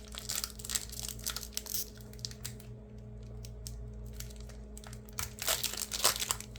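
Crinkling and rustling of a foil trading-card pack wrapper and cards being handled, in scattered small crackles that grow denser and louder near the end.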